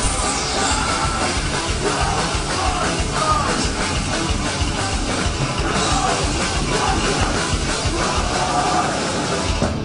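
A metalcore band playing live and loud, with distorted guitars, drums and vocals, recorded from the front of the crowd.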